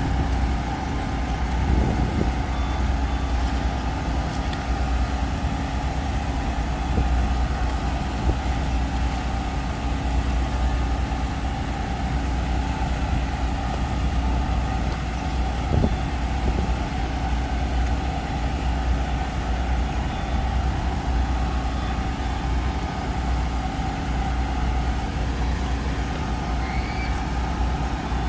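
Steady low hum of an idling engine, with a few constant tones over it, unchanging throughout.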